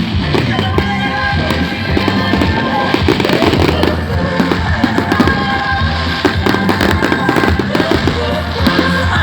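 Fireworks crackling and popping in quick succession, with music playing alongside.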